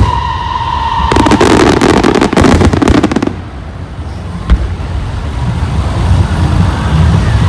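Fireworks: a steady whistle fades out about a second in and gives way to a dense crackling burst lasting about two seconds, followed by a single sharp bang a little after the middle. A low rumble builds toward the end.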